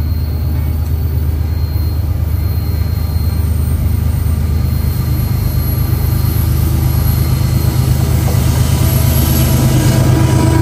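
A train approaching: a steady low rumble grows gradually louder, with higher wheel and rail noise building near the end.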